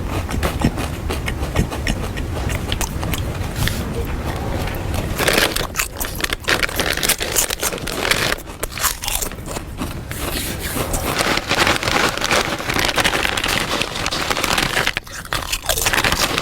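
Loud crunching and chewing of snack food, with packaging crinkling and rustling. It is a dense crackle throughout that grows louder and busier about five seconds in.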